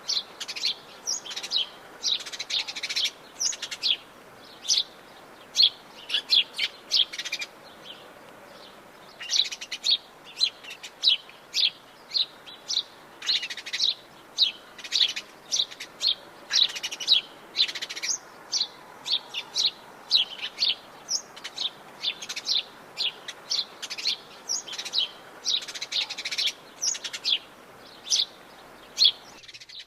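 Several birds chirping and calling in quick, overlapping short notes, over a faint steady hiss.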